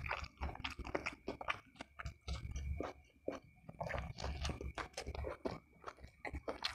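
Close-up chewing of a mouthful of fried fish and rice: irregular wet clicks, lip smacks and a few crunches.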